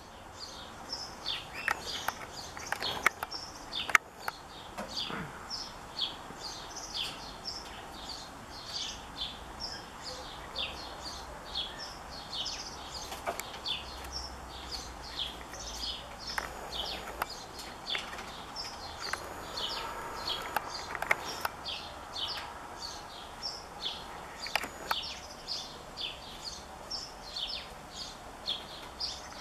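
A caged bird chirping steadily: short high notes, each falling slightly, repeated about twice a second. A few sharp clicks or knocks sound in the first few seconds, the loudest around four seconds in.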